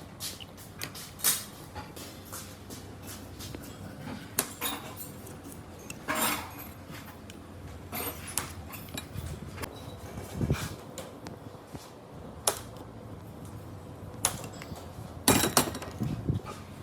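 Irregular light knocks and clinks of hard objects being handled, a dozen or so scattered sharp hits, the strongest about a second in and near the end.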